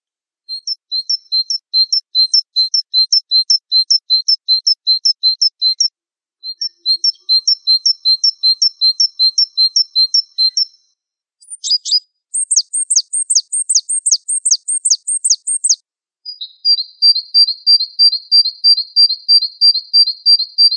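Gelatik Wingko songbird calling: rapid runs of high, clipped chirps, several a second, in bouts broken by short pauses.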